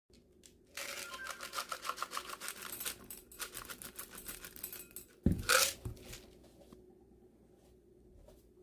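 Kitchen handling sounds: rapid scraping and clicking of a utensil working for about four seconds, then a single sharp knock about five seconds in, followed by a brief scrape.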